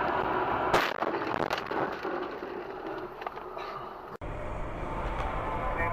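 Vehicle driving noise broken by a sudden loud bang about a second in, followed by a few smaller knocks, typical of a car collision picked up by a dashcam. About four seconds in, the sound cuts abruptly to a steady low engine hum.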